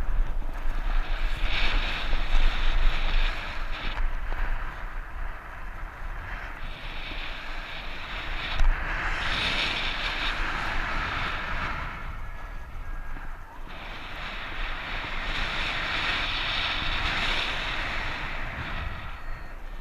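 Strong wind buffeting the camera microphone, a rushing noise with a deep rumble that swells and eases in gusts.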